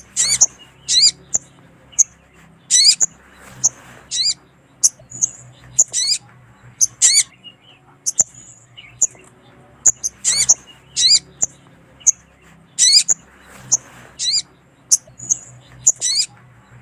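Sogon (little spiderhunter) calls, used as a lure recording of a female calling a male: sharp high chirps and longer down-sweeping notes, one or two a second. The sequence repeats about every ten seconds, as a looped recording.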